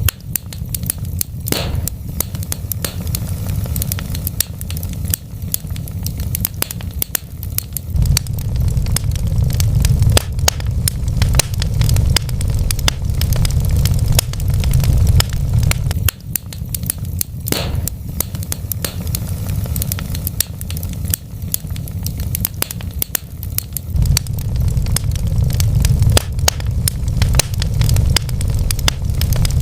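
Wood fire crackling, with frequent sharp pops and snaps over a steady low rumble. Two louder pops stand out, about a second and a half in and about midway.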